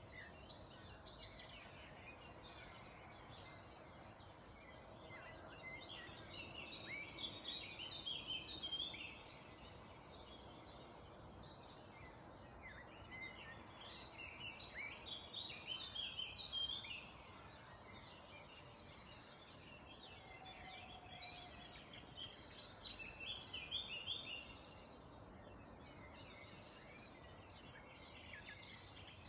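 Early-morning songbirds singing in bouts of quick high chirps and trills, each bout a few seconds long with pauses between, over a faint steady background hiss.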